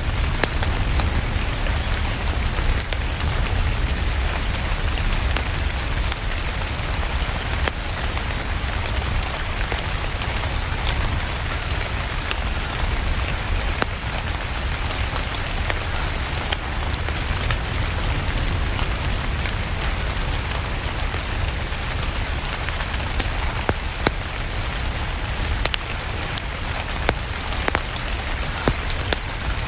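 Steady rain with a wood fire crackling, sharp pops scattered throughout over a low rumble.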